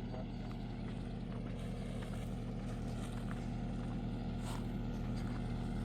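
An engine or motor running steadily at an even speed, with a few faint clicks over it.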